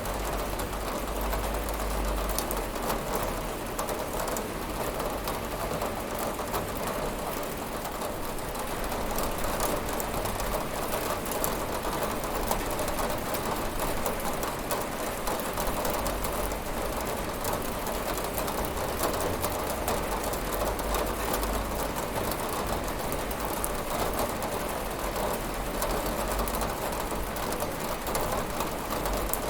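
Steady rain falling on a window, a constant even hiss with the fine crackle of individual drops.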